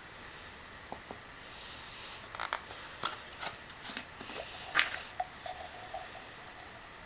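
Handling noises of small hand work: scattered light clicks and short scratchy scrapes, the sharpest a little before five seconds in.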